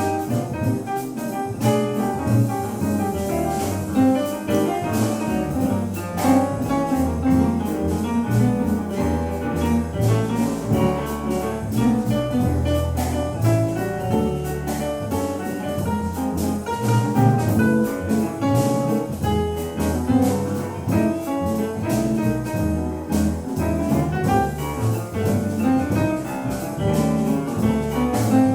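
Live jazz combo playing an instrumental swing passage: piano over a walking double bass and drums.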